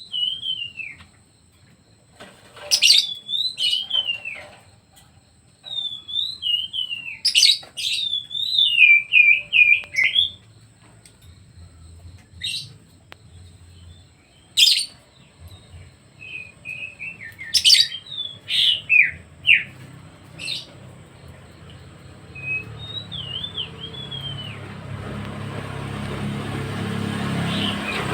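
A songbird singing short phrases of wavy whistles and sharp chips, with pauses between them. Near the end a motor vehicle approaches, its rumble growing steadily louder.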